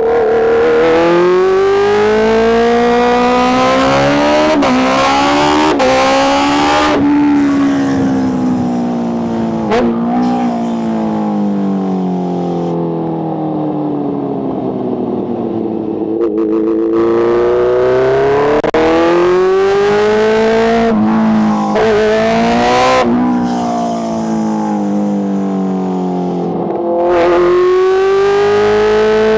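Kawasaki H2's supercharged inline-four engine accelerating hard through the gears. Its pitch climbs, then drops suddenly at each shift; in between it winds down as the bike slows and revs up again.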